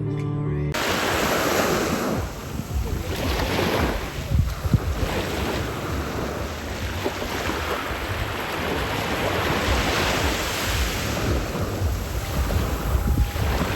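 Ocean surf breaking on the shore, swelling and easing every few seconds, with wind rumbling on the microphone.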